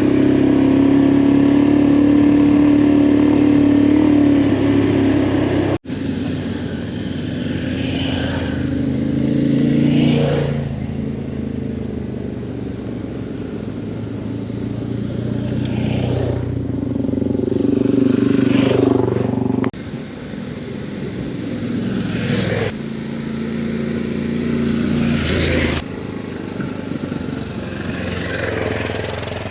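Adventure motorcycle engine running on the move, its pitch rising and falling with the throttle, with the sound jumping abruptly three times.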